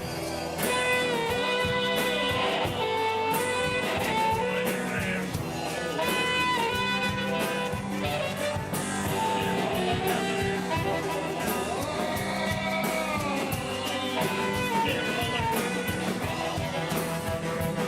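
A live band playing a bluesy song. Guitar and a steady beat sit under a lead melody line that bends and slides in pitch.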